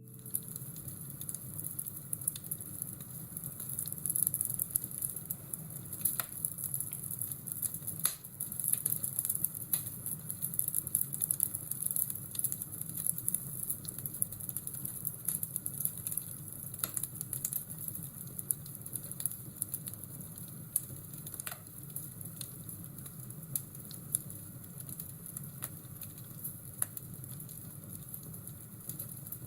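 Crackling fireplace ambience: a steady crackling hiss with occasional sharp pops from the fire.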